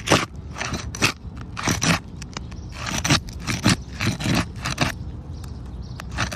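Asphalt roof shingles being worked loose with a flat tool: a dozen or so irregular scraping, crackling strokes as the tool is pushed up underneath the sealed shingles.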